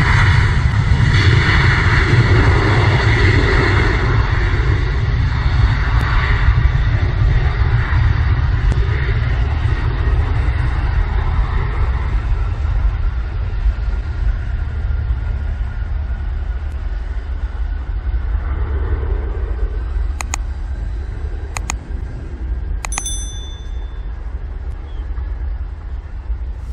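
Aircraft engines rumbling with a deep roar that slowly fades away over about twenty seconds. A few sharp clicks come near the end.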